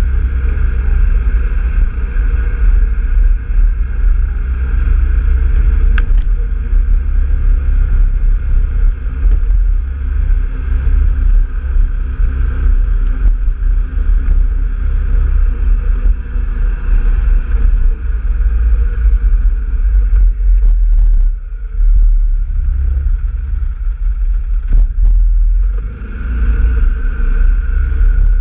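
Off-road vehicle engine running steadily under way, with a heavy low wind rumble on the microphone. The rumble eases briefly twice near the end.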